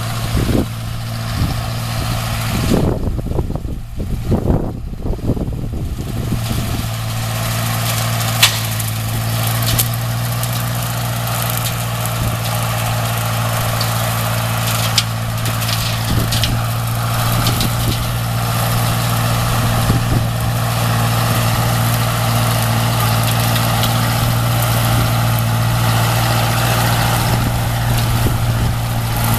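Tractor engine running at a steady speed, with a few seconds of irregular bumping and rustling noise near the start.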